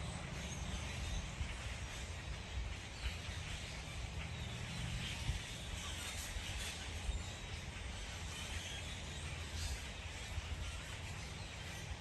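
Outdoor backyard ambience: a steady low rumble with scattered faint bird chirps and calls.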